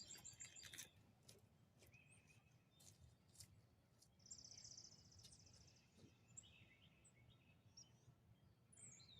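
Near silence: faint bird chirps, with one short high trill about four seconds in.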